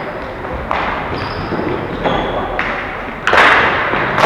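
Ball hockey play: four sharp knocks of sticks and ball in quick succession, each followed by a long echo.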